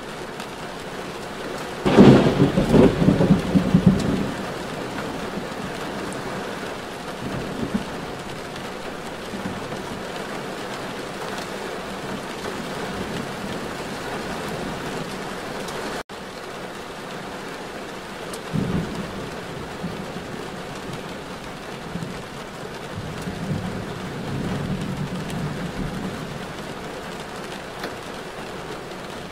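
Steady rain on a moving car, with a loud low rumble about two seconds in that lasts about two seconds, and weaker rumbles later on.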